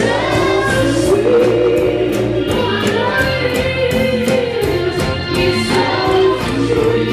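Live soul band playing, with several voices singing together over a steady drum beat.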